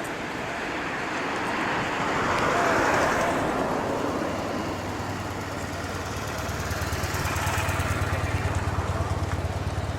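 Traffic-like noise: a swell that peaks about three seconds in, as of a vehicle passing, then a low engine throb with a fast, even pulse.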